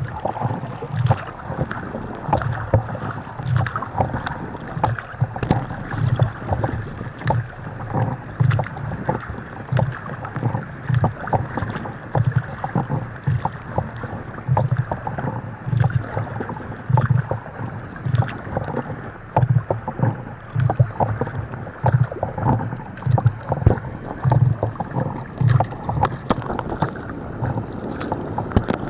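Kayak being paddled on choppy sea water: a steady rhythm of paddle strokes, with water splashing and slapping against the hull.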